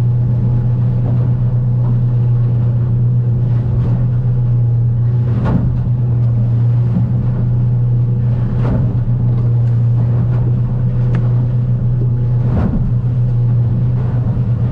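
Outboard engine of a Stabicraft 2050 Supercab aluminium boat running steadily at cruising speed through rough water, a constant low drone. Several sharp thumps of the hull slamming into swells cut through it.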